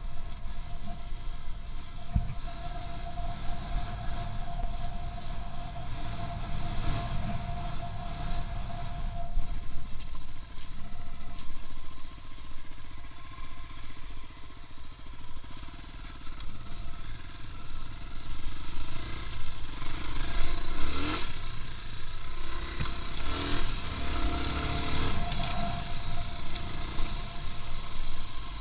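A vehicle on the move: a steady low rumble of engine and road, with rattles and knocks over it.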